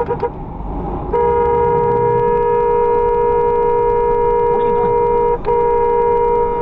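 Car horn sounding: a few quick short honks, then held down in one long steady blast from about a second in, with a brief break near the end.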